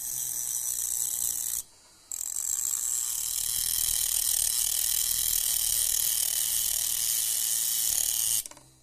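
Homemade 12 V DC-motor drill running with a steady high-pitched whir in two runs: a short one of under two seconds, then, after a half-second stop, a longer run of about six seconds that cuts off near the end.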